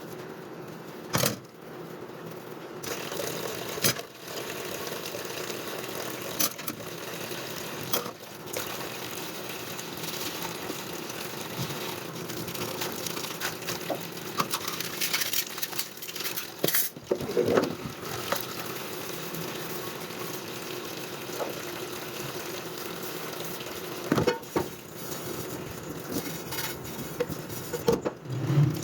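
Kitchen work: scattered clinks and knocks of utensils and dishes over a steady sizzling hiss.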